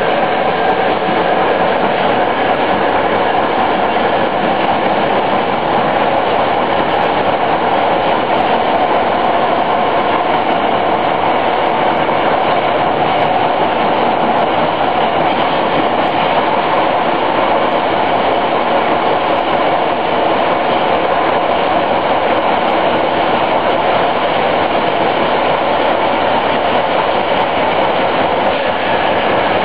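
Fiat Materfer subway car running along the line: a steady, loud rumble of wheels and motors with a constant mid-pitched hum, heard from aboard the moving train.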